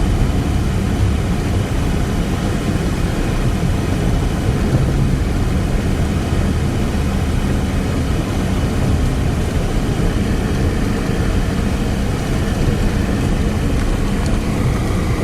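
Steady engine and road rumble of a car in motion, heard from inside the cabin.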